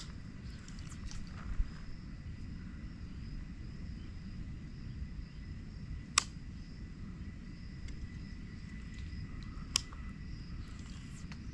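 Quiet creek ambience: a steady low rumble of wind and water, a faint high wavering hum from insects or birds, and two sharp clicks, about six and ten seconds in.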